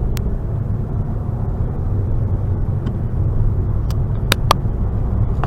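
Car interior noise while driving: a steady low rumble of engine and road, with a few short sharp clicks about four seconds in.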